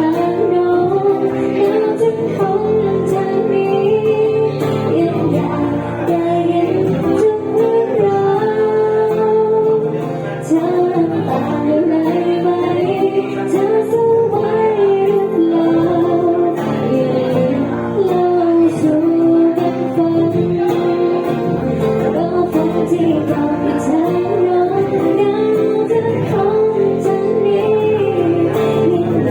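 A woman singing a slow song over guitar accompaniment.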